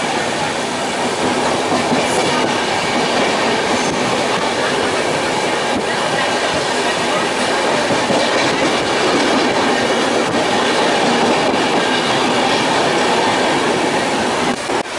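Indian Railways sleeper-class passenger train running, heard from inside the coach through an open window: a steady rumble and rattle of the wheels on the rails, with occasional clacks.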